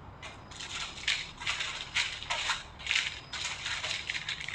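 Plastic snack and chocolate wrappers crinkling and rustling in irregular bursts as the packets are handled.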